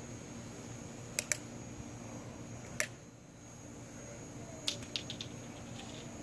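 Faint steady background hum with a few sharp clicks: two close together about a second in, one near three seconds, and a short cluster near five seconds.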